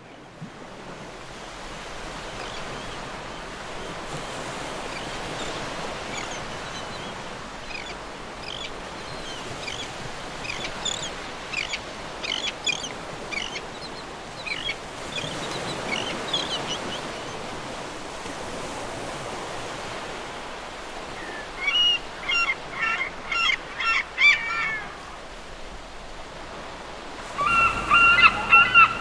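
Seagulls calling over a steady wash of surf. Scattered calls come in the first half and a quick run of about half a dozen calls follows later on. Near the end, loud calls start up and repeat rapidly.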